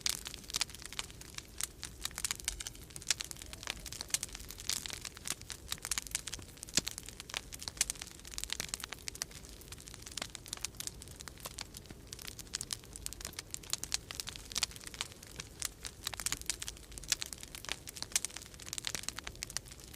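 Wood fire crackling in a fireplace: many irregular pops and snaps, over a steady low rumble of winter storm wind.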